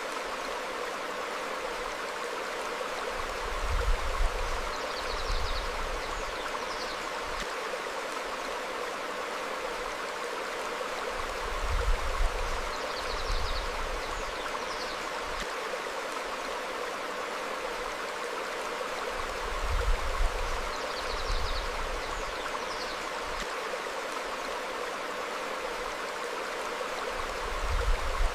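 Stream flowing over rocks, a steady rush of water. Faint bird chirps come and go above it, and a low rumbling swell returns about every eight seconds.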